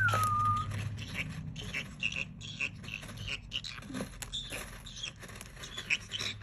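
Green-cheeked conure chattering: a short whistled note that rises and falls at the start, then a run of quick, soft chirps, clicks and scratchy sounds.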